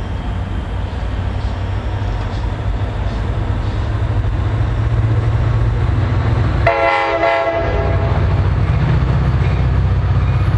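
Diesel passenger locomotive approaching, its low engine rumble growing louder, with one short multi-tone horn blast about seven seconds in.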